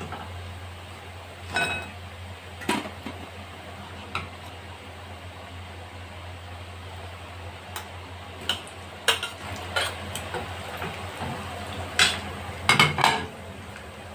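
A metal kitchen utensil clinking and knocking against a frying pan and dish about ten times, a few strikes ringing briefly, while the kofta pieces are handled in and out of the hot oil, with a steady low hum underneath.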